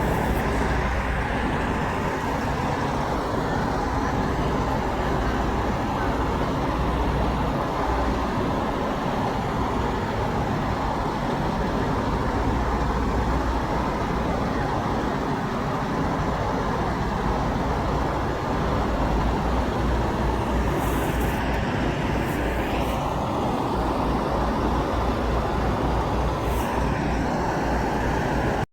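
Steady road traffic: engines and tyres of passing cars and trucks.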